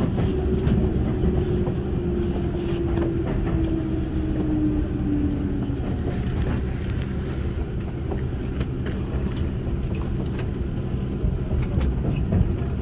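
Keihan 8000 series electric train heard from inside a passenger car, slowing into a station. A steady low running rumble carries a whine that falls gently in pitch over the first half as the train brakes. Light clicks and clunks from the running gear follow in the second half as it creeps along the platform.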